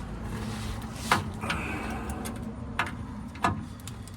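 Metal clicks and knocks from hand tools and parts being worked under a pickup at the spare-tire winch, with three sharper knocks, over a low steady hum.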